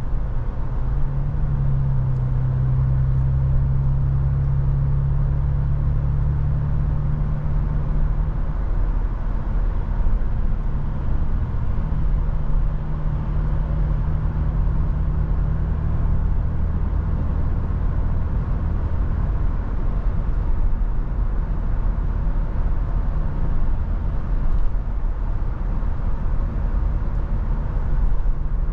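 Toyota FJ Cruiser's 4.0-litre V6 engine and road noise while driving, a steady low drone heard inside the cabin, with the engine note shifting in pitch a few times.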